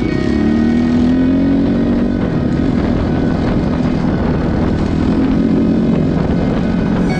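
Honda CRF250 dirt bike's single-cylinder four-stroke engine running while being ridden, its revs rising and falling.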